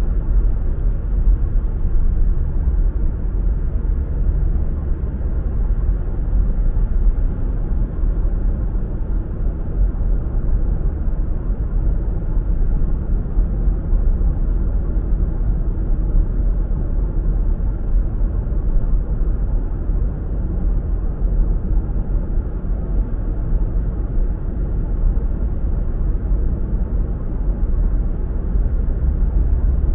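Steady low rumble of a car driving on the road: engine and tyre noise that holds even throughout.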